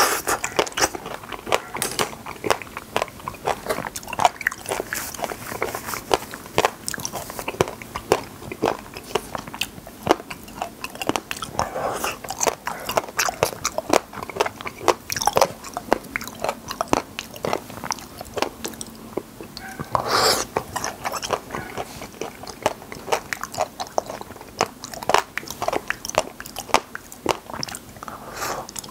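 Close-miked eating of wild raspberries (sanddalgi): the soft berries are bitten off a skewer and chewed, making a dense run of short mouth clicks and smacks. There is one louder noise about two-thirds of the way through.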